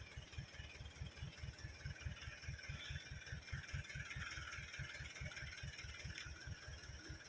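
Mitsubishi Canter 4x4 truck's diesel engine labouring up a steep rocky climb: a low throb pulsing about six times a second.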